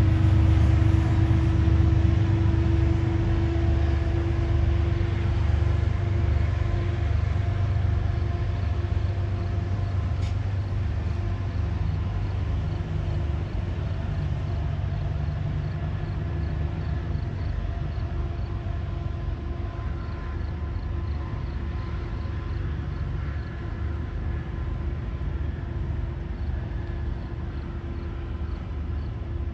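A train running with a deep engine rumble and a few steady tones over it, slowly fading as it moves away.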